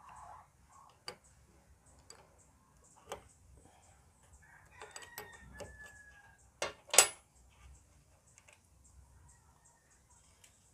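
Scattered metal clicks and knocks of hand tools on a starter motor's bolts and housing as it is taken apart, with a louder double knock about seven seconds in.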